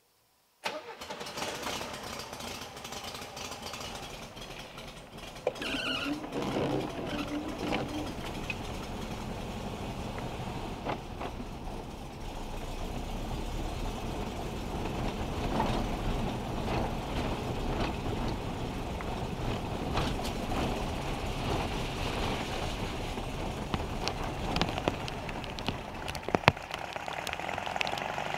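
Heavy rain and dripping water hitting a small car, a dense patter of many small ticks over a steady low rumble. It cuts in abruptly just under a second in.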